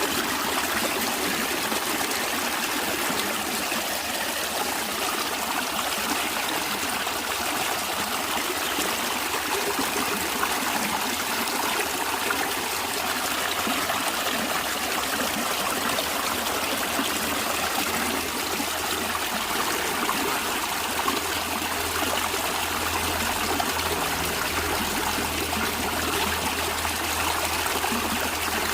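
A stream running over stones, a steady rushing and trickling of flowing water.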